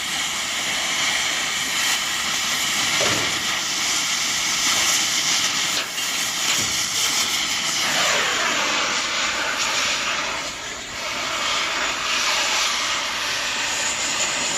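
Oxy-fuel cutting torch hissing steadily as it cuts through the chiller's metal, with a few sharp metal knocks.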